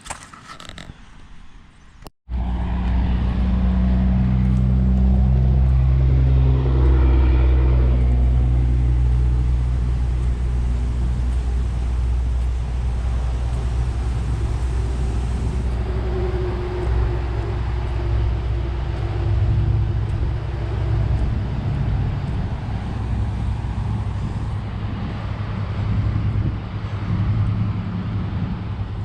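A car or truck driving, heard from inside the cabin: a steady low engine and road rumble that starts abruptly about two seconds in, its engine note shifting slightly as the speed changes.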